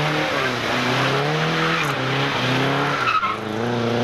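Rally car engine being driven hard, its pitch climbing and dropping several times as it goes through the gears, over a steady hiss of tyre noise.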